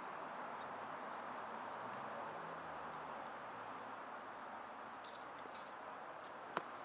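Steady outdoor background noise with a few faint, high peeps from ducklings a little after the middle, and one sharp click near the end.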